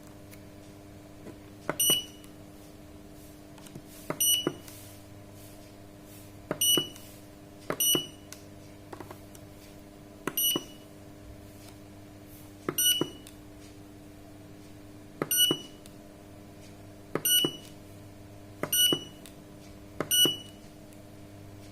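Digital solar water heater controller beeping as its buttons are pressed: about ten short, high beeps, each with a click, at uneven intervals of one to two and a half seconds as settings are stepped through. A steady low hum runs underneath.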